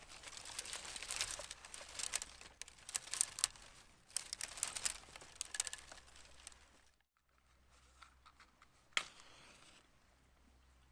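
Crinkling and rustling, dense and crackly for about the first seven seconds, then only a few scattered clicks and one sharper crackle about nine seconds in.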